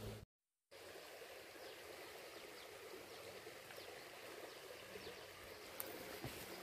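Faint, steady rush of a flowing river. Just after the start, a low hum cuts off abruptly in a short dropout.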